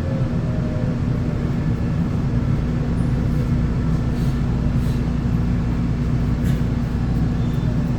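Electric commuter train running steadily on the rails: a continuous low rumble with a steady hum, and a faint whine that drifts down in pitch in the first couple of seconds.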